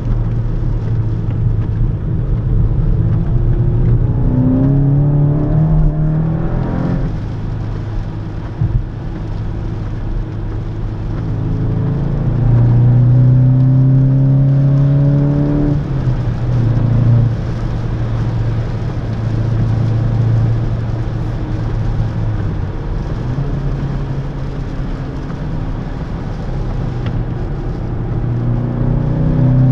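2017 Skoda Octavia RS's 2.0-litre turbocharged four-cylinder petrol engine under way. It pulls up through the revs twice, dropping back sharply at each gear change, runs steadily in between, and starts climbing again near the end.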